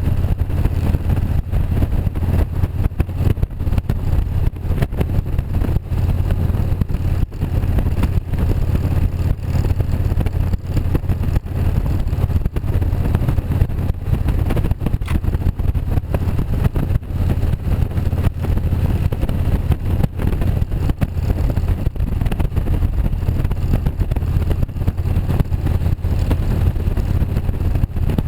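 Motorcycle engine running at a steady pace under way, with rushing wind and buffeting over the microphone.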